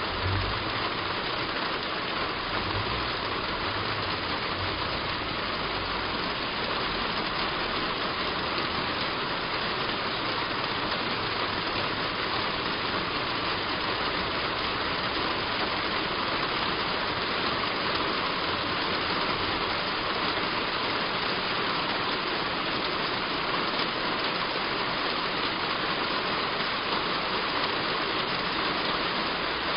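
Heavy rain falling steadily on a roof, an even dense patter, with a low rumble underneath during the first few seconds.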